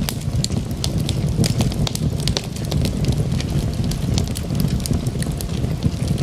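Wood fire of burning logs in a fireplace, crackling with many sharp irregular pops over a steady low rumble of the flames.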